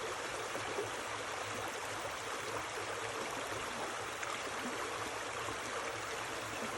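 Mountain stream running over rocks: a steady rush of flowing water with fine gurgling.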